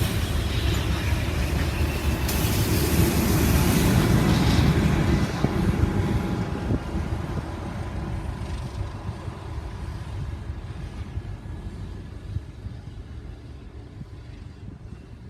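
Train passing close by: a loud rumble and hiss that fade steadily from about five seconds in as it moves away.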